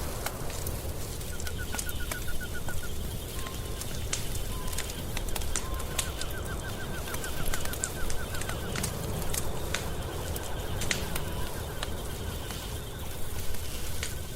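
Wood fire crackling, with many sharp scattered pops over a steady low rumble. A rapid chirping trill sounds twice, with a few short whistled notes between.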